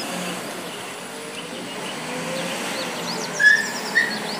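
Small birds chirping and twittering, with two louder short calls about three and a half and four seconds in, over a steady low background hum.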